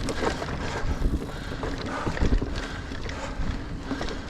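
Niner Air 9 RDO 29er hardtail mountain bike rolling over dirt singletrack: tyre rumble with frequent small knocks and rattles from the bike, and wind on the microphone.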